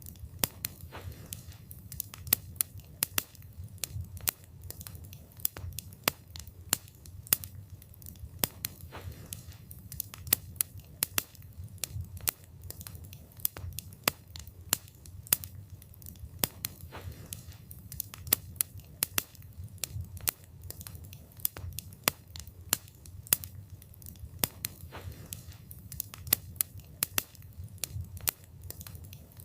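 Wood fire burning: steady low rumble of the flames with frequent sharp crackles and snaps from the burning wood, irregular and several a second.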